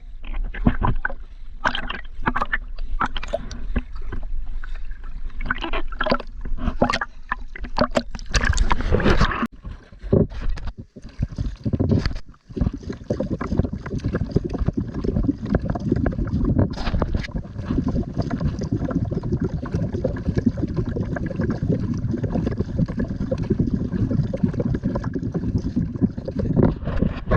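Kayak on the water: irregular splashing and knocking of the paddle and water against the hull for the first ten seconds or so, then a steady low rushing noise.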